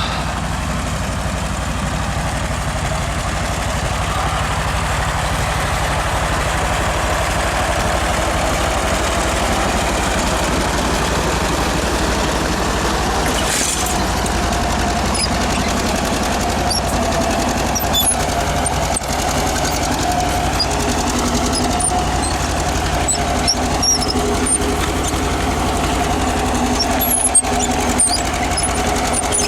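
1948 John Deere B's two-cylinder engine running steadily under heavy load as it pulls a two-bottom plow in second gear through wet clay. Its note shifts about halfway through.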